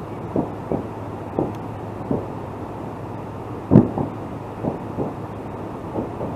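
Distant fireworks going off: about ten short, low bangs at uneven intervals, the loudest a little past halfway, over a steady background hiss.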